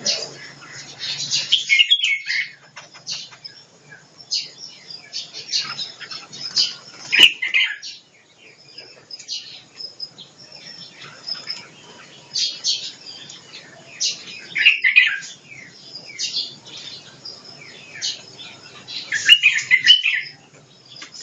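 Caged songbirds chirping and calling over and over, with louder flurries of quick falling notes every few seconds.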